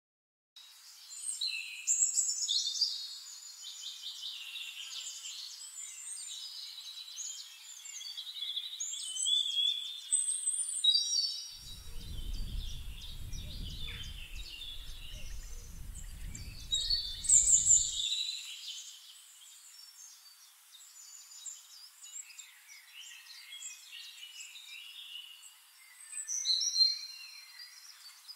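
Several songbirds chirping, trilling and whistling, with calls overlapping. A low rumble runs under them for a few seconds in the middle.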